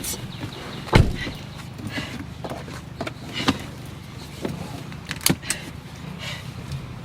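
A few sharp knocks and clunks over a low steady hum, the loudest a heavy thump about a second in.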